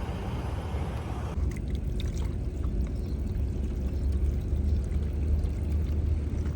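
Outdoor wind buffeting the microphone as a steady fluttering low rumble, with a broader hiss dropping away about a second in and a few faint short bird chirps over it.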